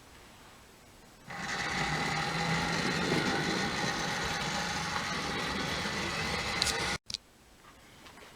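Tri-ang Jinty OO-gauge model tank locomotive running on the layout, its small electric motor and gearing whining steadily with wheel and track rumble. The sound comes in suddenly about a second in and stops abruptly near the end.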